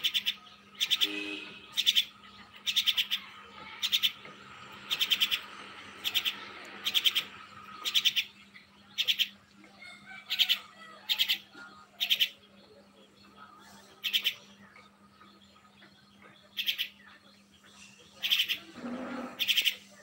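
A bird calling: short, rapidly pulsed chirps repeated about once a second, with a short pause past the middle.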